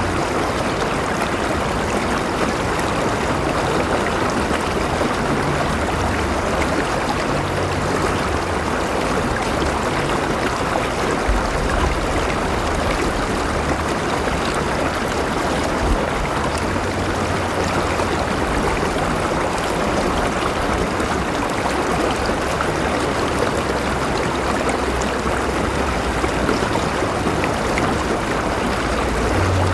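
River water flowing steadily over rocks, a continuous rushing and babbling with a low rumble underneath.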